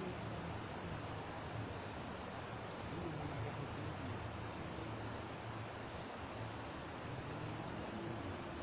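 Insects trilling steadily at one high pitch, unbroken throughout, over a soft even hiss.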